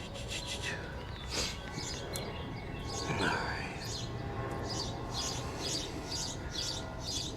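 Bird chirping in the background: a quick, even series of short high chirps, about two or three a second, through the second half, with a few faint clicks.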